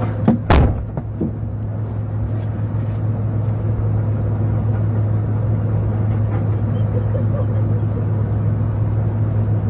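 Steady low drone inside a police car's back seat, typical of the car idling, with two or three sharp knocks in the first second.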